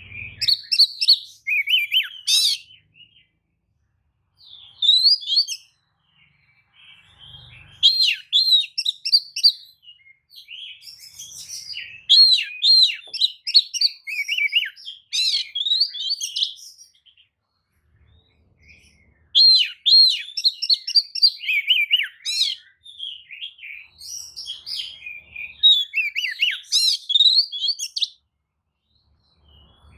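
Oriental magpie-robin singing: bursts of rapid, varied high notes lasting a few seconds each, with short pauses between them. It is a baiting song meant to provoke rival magpie-robins into answering.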